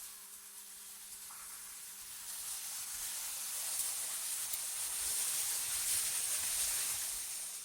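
AI-generated wind: a hissing gust that swells about halfway through and eases off near the end, over a faint steady low hum.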